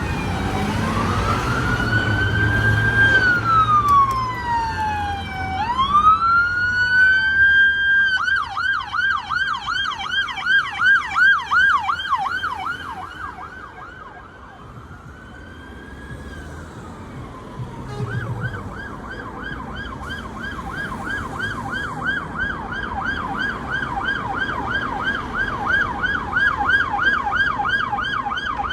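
Fire engine sirens: a slow rising-and-falling wail switches to a fast yelp about eight seconds in, fades out around the middle, then a wail and a fast yelp start up again and carry on, over a low engine rumble.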